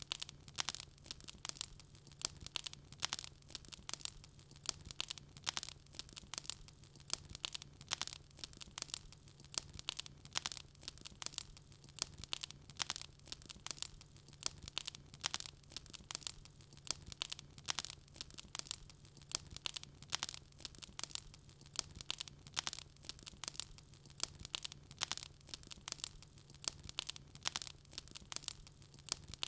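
Wood fire crackling in a fireplace: a steady stream of sharp pops and snaps at an uneven pace, several a second, over a faint steady low hum.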